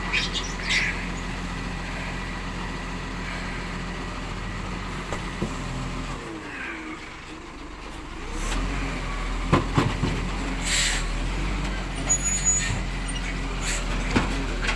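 Rubbish truck's diesel engine running steadily. It drops away for about two seconds some six seconds in, then picks up again. A short air-brake hiss and a few sharp clanks sound over it.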